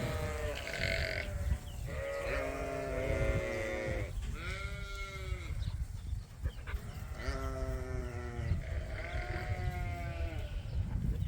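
A flock of sheep bleating: about five long calls spaced a second or two apart, several voices overlapping, over a steady low rumbling noise.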